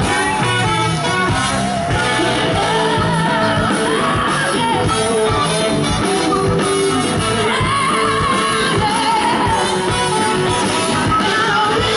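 Live rock band playing loudly with a lead singer.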